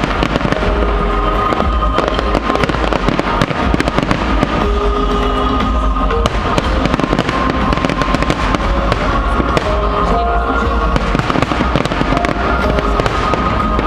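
Fireworks going off in quick succession, a dense run of bangs and crackles, with music playing alongside.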